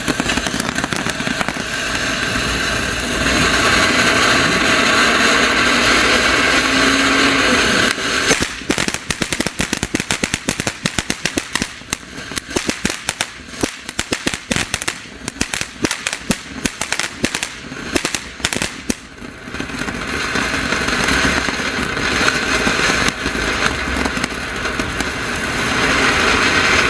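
A CHUPACABRA consumer fountain firework burning. It starts with a steady hissing spray, then about 8 seconds in it breaks into some 11 seconds of rapid, irregular crackling pops, then goes back to a steady hiss.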